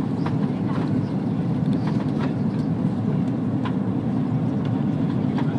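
Steady low rumble of cabin noise inside an Airbus A330-300 airliner, with a few faint light clicks or rattles here and there.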